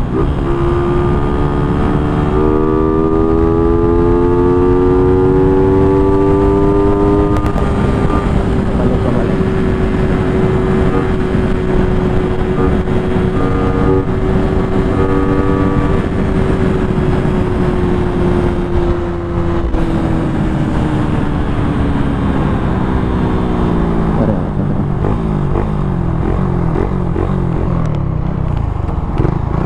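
Suzuki Raider 150 single-cylinder four-stroke engine with its stock muffler, revving high at full throttle. Its pitch climbs over the first several seconds, holds steady for a long stretch, then falls from about two-thirds of the way in as the bike slows. Heavy wind rush buffets the helmet-mounted microphone throughout.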